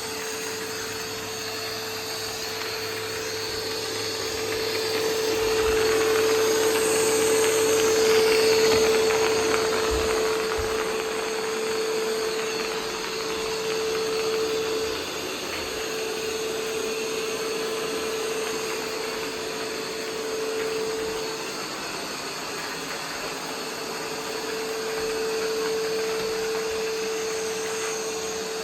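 Roomba 505 robot vacuum running: a steady motor whir with a humming tone, growing louder about five seconds in and easing off again after about ten seconds.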